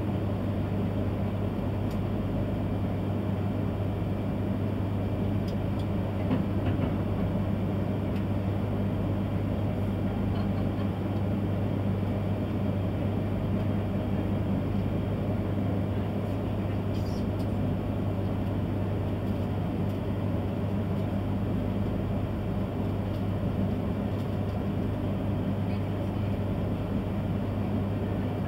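Steady running noise inside the cabin of an E3-series Komachi shinkansen train as it comes into a station at low speed: a constant low hum with an even rolling rumble underneath.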